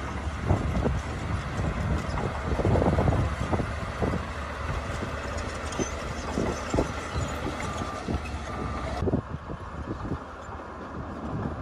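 Heavy earthmoving machinery running: a diesel engine's low rumble with repeated clanks and knocks. The sound changes abruptly about nine seconds in.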